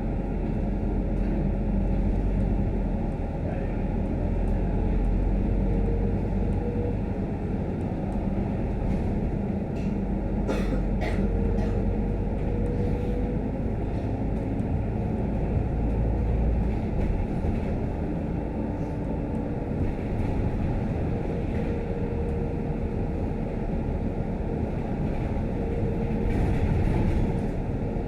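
Scania K310UD double-decker bus under way, heard from inside: a steady low engine and road rumble with a faint whine that comes and goes, and a few sharp rattling clicks about ten seconds in.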